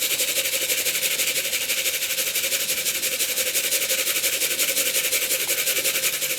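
Tin of pigeon feed shaken hard and steadily, the grain rattling against the metal in a fast, even rhythm: the feeding call that draws young pigeons back into the loft.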